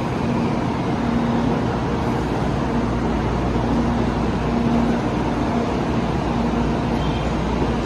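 N700-series Shinkansen train standing at the platform and starting to pull out: a steady mechanical hum and rumble, with a low tone that comes and goes about once a second.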